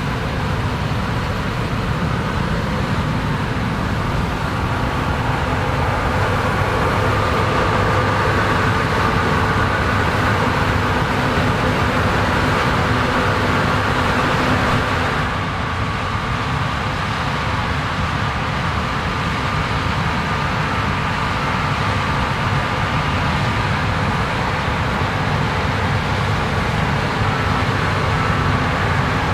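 Large diesel farm machinery running steadily while harvesting corn, a deep engine noise with a steady whine over it; the sound shifts slightly about halfway through.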